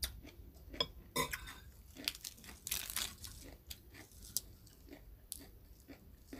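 A person chewing a crunchy mouthful of crispy pork belly and pounded long-bean salad: irregular crisp crunches and wet chewing, with the densest crunching about a second in and again around three seconds in.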